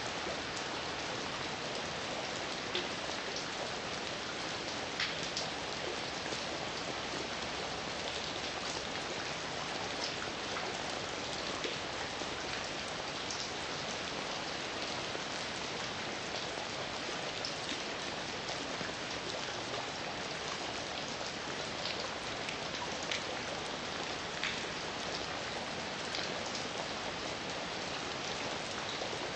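Heavy rain falling steadily, an even hiss with scattered sharper drops ticking on a surface.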